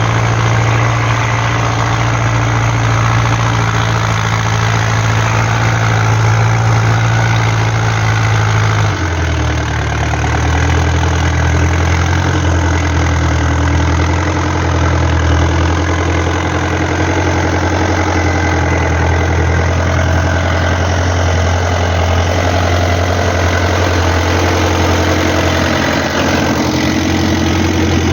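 Fiat 640 DTC tractor's four-cylinder diesel engine running steadily, its low note dropping slightly about nine seconds in and then holding.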